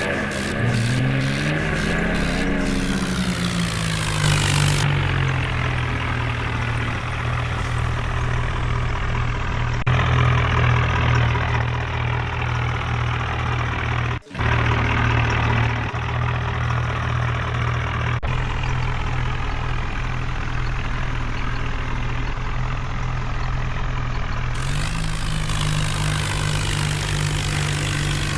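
Tractor diesel engine running, its speed dropping in the first few seconds, then steady, and picking up again about 24 seconds in; the sound breaks off briefly near the middle.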